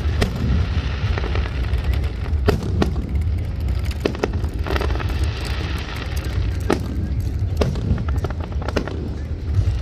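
Aerial fireworks going off: a series of sharp bangs and pops, about six distinct reports, with crackling in between over a steady low rumble.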